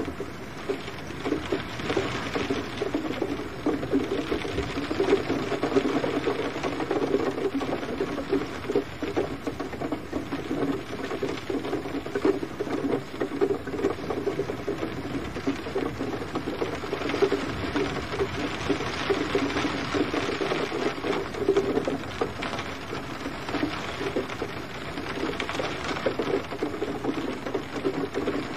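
Steady gentle rain, a dense, irregular patter of drops.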